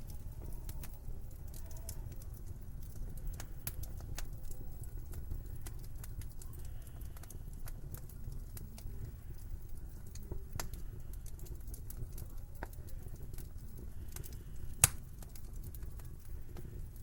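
Wood fire in a fireplace crackling, with many small irregular pops and one sharp, much louder pop near the end, over a low steady rumble.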